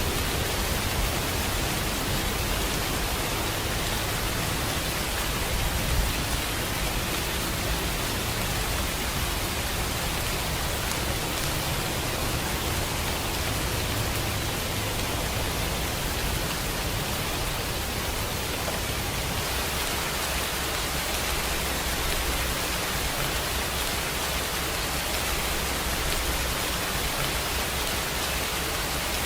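Steady rainfall: an even, unbroken hiss of rain with a low rumble beneath it.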